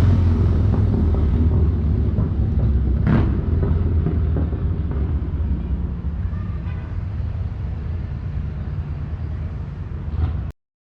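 Motor vehicle engine running with a steady low rumble. A brief sharp sound comes about three seconds in, and the sound cuts off abruptly near the end.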